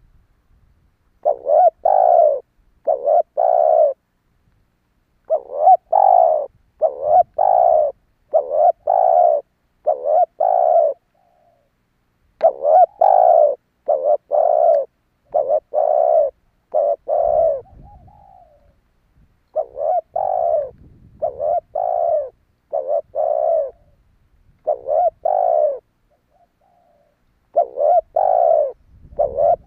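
Spotted dove cooing: runs of short, low, hollow coos repeated over and over, with pauses of a second or two between runs.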